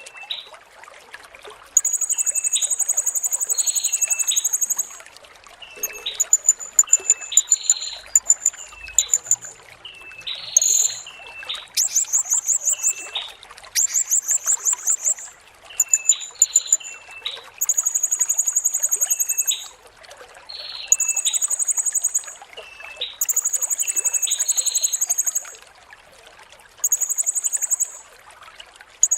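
Blue-crowned hanging parrot (serindit) calling: very high, shrill trills in bursts of one to three seconds, repeated again and again, some smooth and some rapidly stuttering, with softer short chirps lower down between them. A steady trickle of running water goes on underneath.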